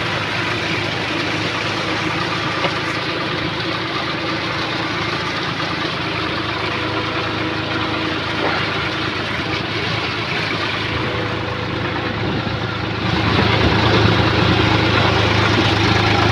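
Swaraj 960 FE tractor's diesel engine running steadily, growing louder near the end.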